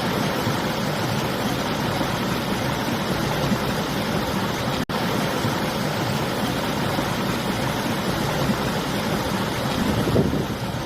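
A river's flowing water and winter wind making a steady rushing noise, with a split-second gap about five seconds in.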